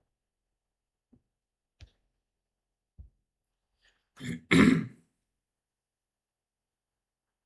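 A man clearing his throat, a short burst and then a longer, louder one about four seconds in, after a few faint clicks.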